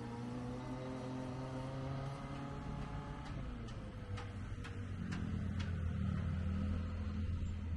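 Kawasaki Ninja ZX-25R's four-cylinder engine running under way, its pitch easing down about three seconds in and then holding, with a few sharp clicks over it.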